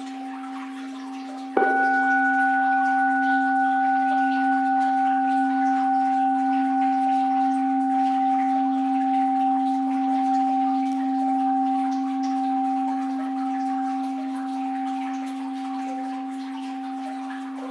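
An orin, a Japanese Buddhist bowl bell, struck once about a second and a half in and left to ring, its several steady tones fading slowly; the ring of an earlier strike is still sounding at the start. Under it runs the faint hiss of flowing water.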